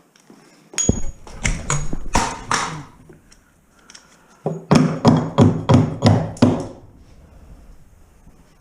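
Metal knocking and clanking in two bursts: a few strikes with a brief metallic ping, then a quick run of about six hard knocks, as tools work at wiring and pipe in a gutted house.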